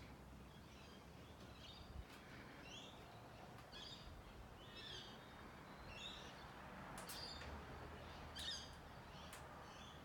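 Faint bird chirps, short clusters repeating about once or twice a second over a steady outdoor hiss, with a few sharp clicks.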